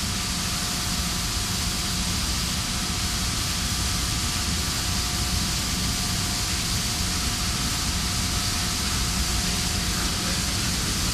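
Steady industrial machinery noise: an even, unbroken hiss and rumble with a faint steady whine running through it.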